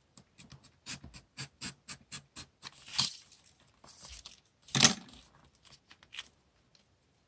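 Light, quick taps and clicks of paper stationery and supplies being handled on a desk, about four a second, with two louder rustling scrapes about three and five seconds in.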